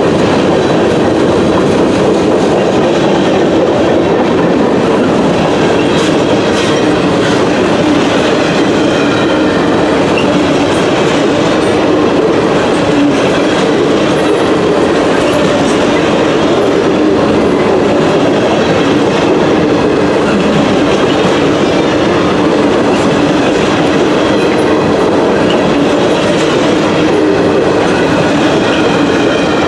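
A train's cars rolling steadily past on the rails, loud and continuous throughout.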